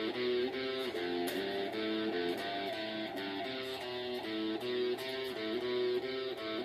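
Guitar played quietly, picking a repeating pattern of single notes that changes pitch several times a second across chord changes.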